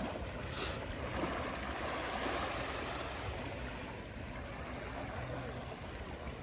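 Sea water washing and surging in shallow surf, a steady rushing noise, with a brief higher splash about half a second in.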